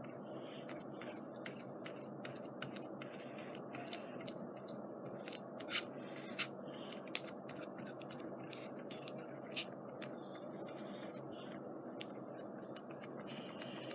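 Steady hum of a room fan, with scattered small clicks, taps and scrapes from craft work at the table, three sharper clicks about six to seven seconds in.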